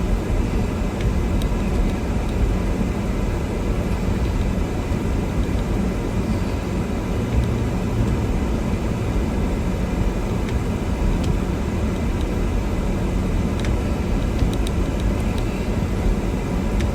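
Steady low rumble of a 4x4 car's engine and road noise, heard from inside the cabin while driving slowly through snow.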